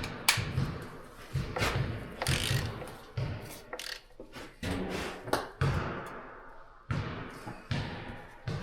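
Ratchet with a 15 mm socket clicking as it works the pickup truck's oil drain plug loose, among irregular metal knocks.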